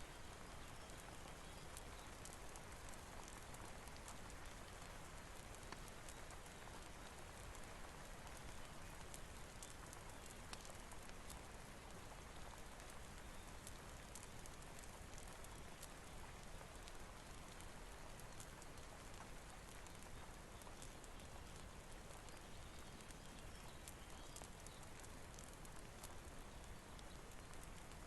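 Steady rain falling, a soft even hiss with scattered faint ticks of drops.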